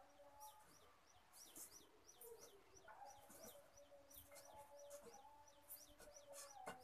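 Faint birds chirping in quick repeated high chirps, thickest through the middle, over a light crackle of sev frying in hot oil in a kadai.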